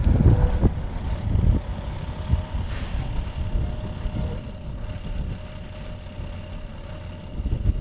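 Low rumble of a motor vehicle running, with a faint steady hum through the first half.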